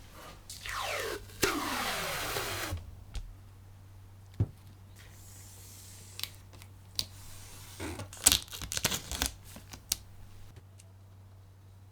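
Two long tearing, rasping noises in the first three seconds, then a scatter of sharp clicks and knocks, thickest around eight to nine seconds in, over a steady low hum.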